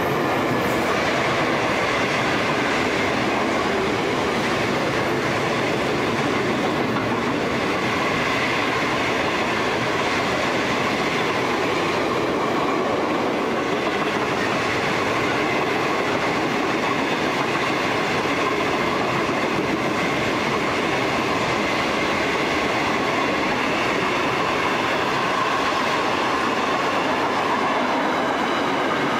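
Freight wagons of a long steel train rolling past close by: a steady rumble and clatter of steel wheels on the rails.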